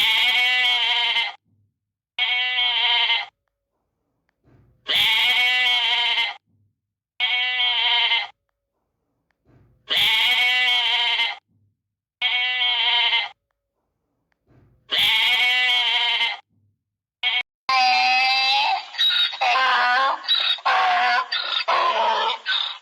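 Bleating: a long wavering bleat followed by a shorter one, the pair repeating about every five seconds, then a quicker run of several bleats of varying pitch near the end.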